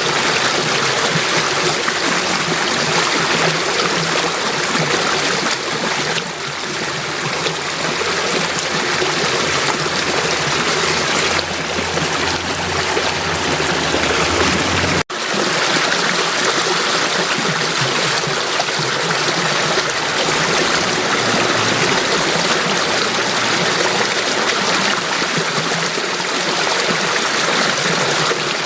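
Water flowing steadily, an even rushing sound that cuts out for an instant about halfway through.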